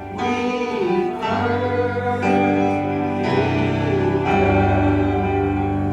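Gospel worship song in church: voices singing over sustained keyboard chords, with long held notes.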